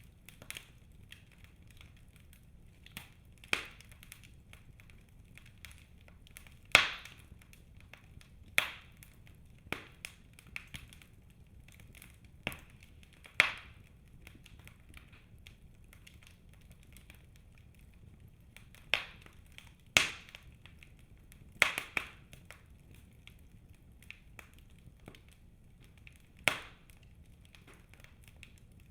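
Birch logs burning in a fireplace: a low, steady hiss of flames with faint crackling, broken by about ten sharp wood snaps and pops at uneven intervals.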